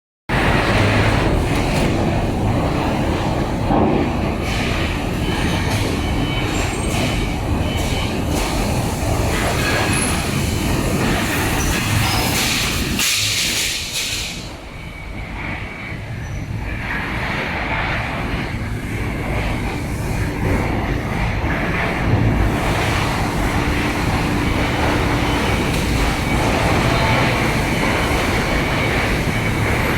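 Loud, steady industrial machinery noise on an aluminium melting and casting line: a continuous rumble with scattered knocks and clatter, dropping briefly about halfway through before picking up again.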